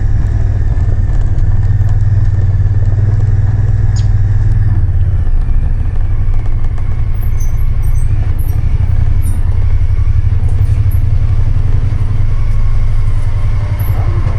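Motor vehicle engine running steadily while driving, a loud low drone that shifts slightly in pitch about five seconds in.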